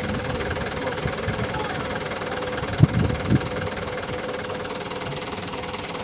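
Truck engine idling steadily, with a few short low thumps about three seconds in.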